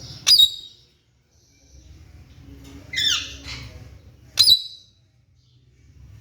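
Alexandrine parakeet squawking: three loud, harsh calls, a short one just after the start, a longer one falling in pitch about three seconds in, and another short one about a second and a half later.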